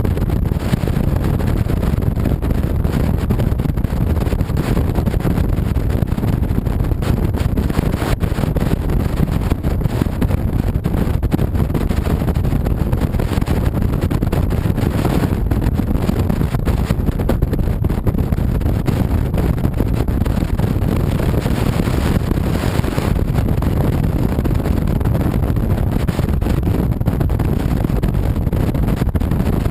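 Motorcycle ride: steady wind rush over the microphone over the low drone of a 2007 Honda VTX 1300C's V-twin engine at cruising speed.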